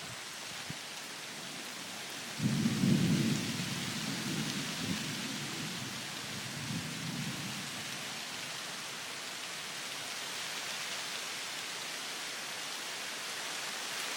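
Steady rain hissing, with a clap of thunder about two seconds in: a sudden low rumble that is loudest for about a second, then rolls on and fades away over the next few seconds.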